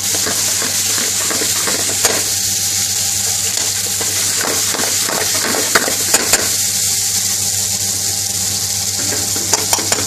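Chicken tikka pieces, peppers and onion sizzling in hot oil in a metal pan, a steady hiss, with a few sharp clicks of the metal spoon against the pan as the food is stirred, about two seconds in, three close together around six seconds, and several near the end.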